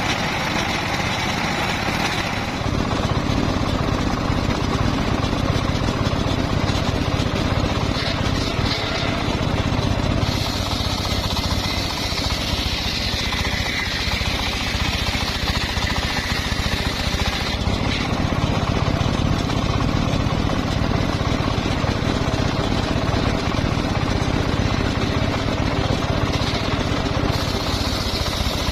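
Homemade circular sawmill running steadily, its engine pulsing rapidly. A higher cutting sound comes in for several seconds in the middle as the blade goes through the log, and again near the end.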